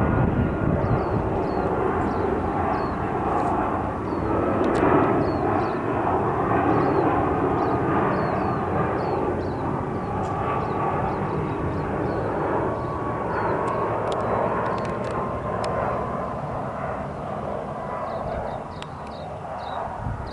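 Boeing 757 twin-engine jet airliner flying over: a steady, broad jet roar with a faint whine that slowly falls in pitch, easing off near the end.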